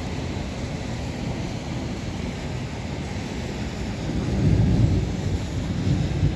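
Thunderstorm wind gusting hard against the microphone, with a louder low rumble swelling about four seconds in and again near the end.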